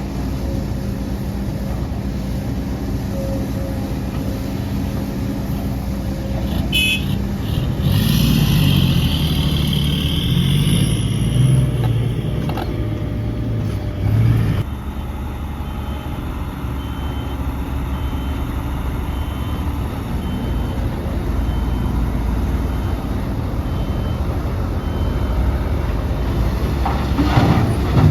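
Heavy diesel engines of earthmoving machinery running, louder and labouring for several seconds in the first half. About halfway through, a reversing alarm starts beeping about once a second and keeps on for some ten seconds.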